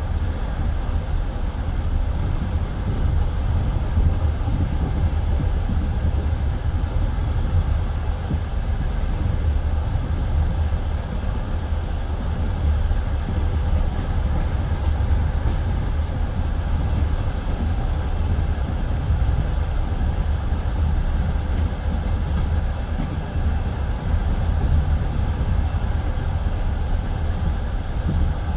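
Passenger train carriage running steadily at speed on the open line, heard from inside the carriage: a continuous deep rumble of wheels on rails with running noise from the carriage.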